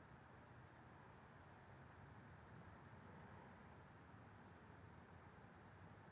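Faint, high-pitched insect trills, likely crickets, repeating in short half-second phrases over a soft, low wind hiss.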